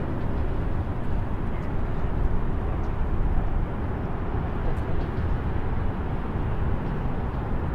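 Distant highway traffic: a steady low rumble of passing vehicles with no single car standing out.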